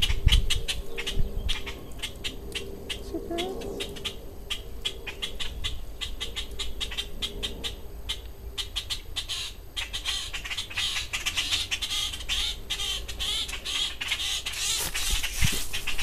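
Cactus wrens calling in a rapid, harsh chatter of short notes, several a second, running denser and almost continuous in the second half: the adult birds calling around their fledgling that has fallen from the tree. A low rumble on the microphone opens it.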